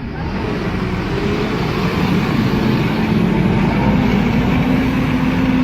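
A heavy vehicle's engine running steadily under load, its pitch and loudness slowly rising.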